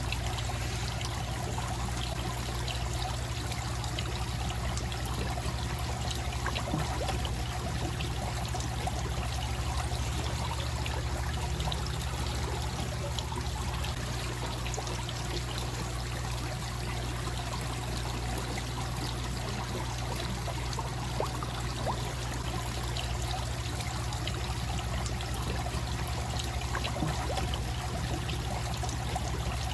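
Koi pond waterfall: water pouring and splashing steadily into the pond, with a faint tick or small splash now and then.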